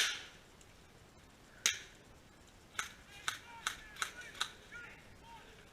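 Airsoft guns firing single shots: one sharp crack about a second and a half in, then five more in quick, uneven succession over the next two seconds.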